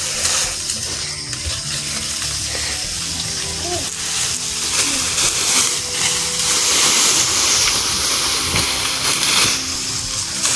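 Water pouring and splashing in a steady, hissing flow.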